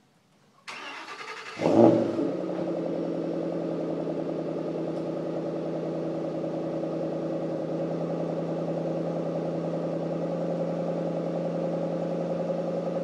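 2011 Ford Shelby GT500's supercharged 5.4-litre V8, on its stock exhaust, cold started: the starter cranks for about a second, the engine catches with a loud flare, then settles into a steady cold idle.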